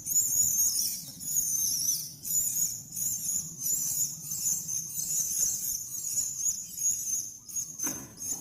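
Small birds chirping and twittering continuously, high-pitched, with the pitch wavering up and down.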